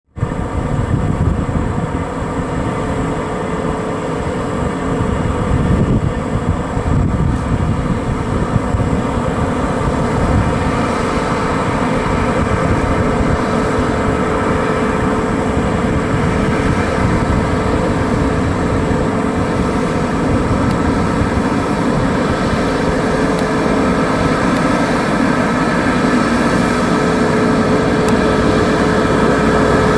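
Heavy diesel haul truck running steadily, a low engine drone with a steady whine above it.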